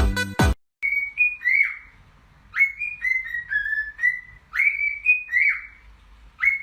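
A pet parrot whistling a short tune three times over, each phrase a few clear notes stepping downward. Electronic dance music from the previous clip cuts off about half a second in.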